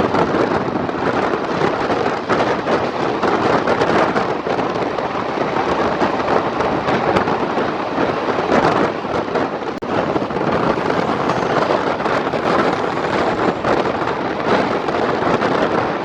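Dense, steady rumble and clatter of a moving train heard from the first coach behind twin ALCo WDG-3A diesel locomotives, as it runs close alongside another train it is overtaking.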